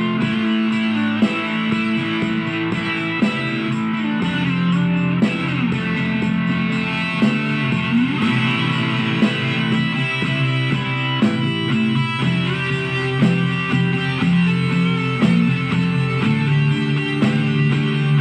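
Guitar music: plucked notes over held low notes, picked about once a second, with some notes bent in pitch.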